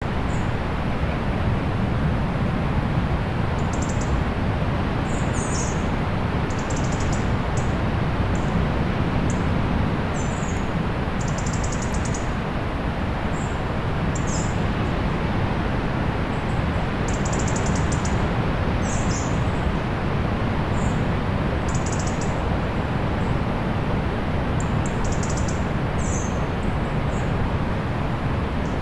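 Small birds making short, high-pitched chirps, scattered every second or two, over a loud, steady rushing wash of noise such as surf or wind.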